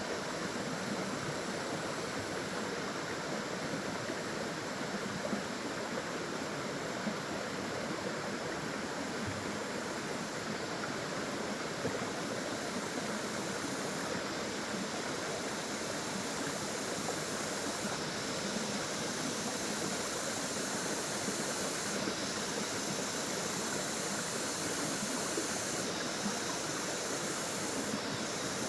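Water flowing and splashing in a steady, even rush, as from a small waterfall or stream.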